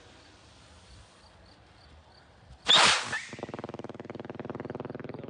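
Consumer firework rocket going off about two and a half seconds in with a sudden loud whoosh. It is followed by a steady, rapid buzzing crackle that runs on for about three seconds.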